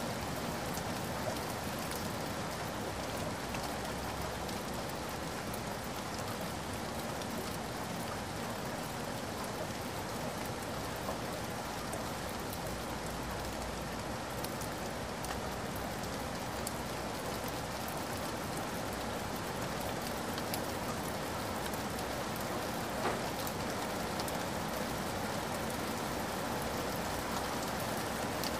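Steady hiss like falling rain, with fine scattered ticks throughout.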